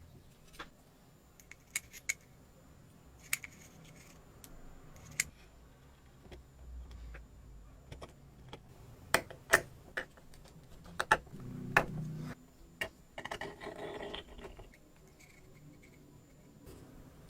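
Small metal parts of a miniature engine model being handled: scattered sharp clicks and clinks, loudest a little past halfway, with a short rattling scrape about two thirds through.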